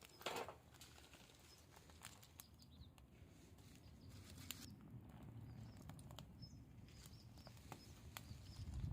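Small wood campfire crackling faintly, with scattered sharp pops.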